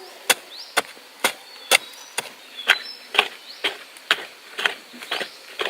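Sharp knocks in a steady rhythm, about two a second, a dozen in all.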